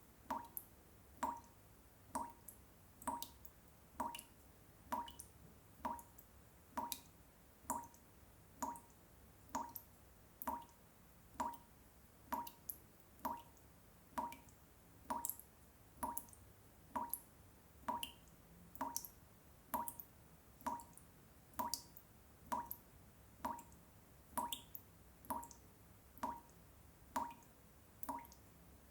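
Water drops falling one after another into water, each a short pitched plop, in a steady, even rhythm of roughly three drops every two seconds, over a faint low hum.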